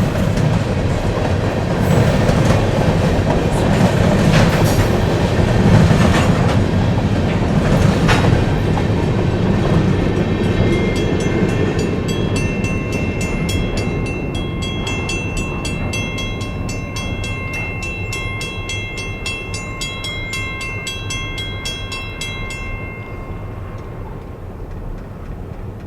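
Freight train rolling past with a heavy rumble and rhythmic wheel clicks over rail joints. It is loudest about six seconds in, then slowly fades as it moves away. A steady high-pitched ringing joins about halfway through and stops shortly before the end.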